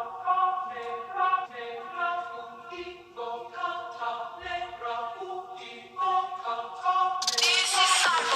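Electronic dance music breakdown with no beat: choir-like sung chords that change every second or so. About a second before the end, a bright noise sweep rises over them, building toward the drop.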